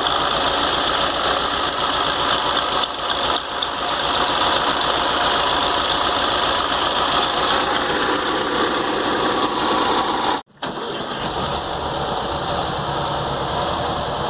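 Volkswagen Fusca (Beetle) air-cooled flat-four engine running steadily. The sound drops out abruptly for a moment about ten seconds in, then resumes.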